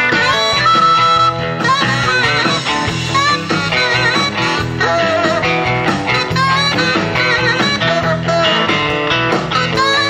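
Rock-and-roll band playing an instrumental break between sung verses, with lead guitar carrying bending, wavering notes over the rhythm section.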